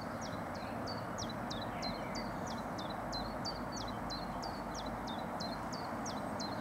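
A small bird singing a fast run of short, high, downward-sliding notes, about three a second, over a steady low background rumble.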